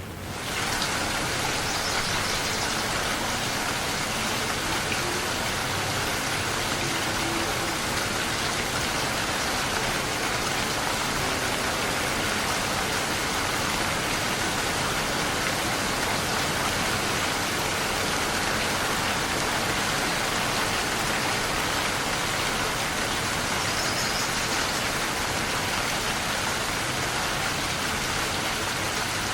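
Steady rain falling, an even hiss of drops that swells up in the first second and then holds level.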